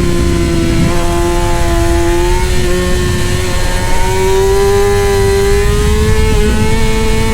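Middleweight superbike engine running hard at high revs. Its pitch dips slightly early on, holds, then climbs steadily through the second half, over a constant low rumble.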